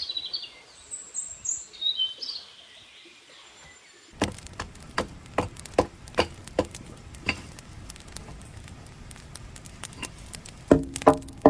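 Birds chirping for about two seconds, then from about four seconds in a series of sharp knocks, one to two a second. Near the end they turn louder and more ringing, with a slight pitch.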